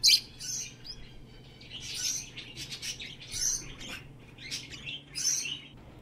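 Small birds chirping: a scatter of short, high chirps and tweets that come and go.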